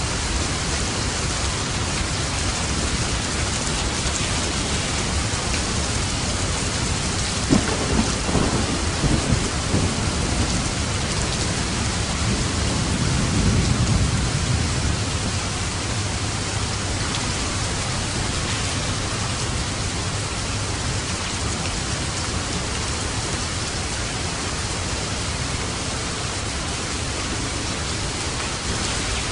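Steady heavy rain with light thunder: a crackling thunderclap about a quarter of the way in, followed by a low rolling rumble around the middle.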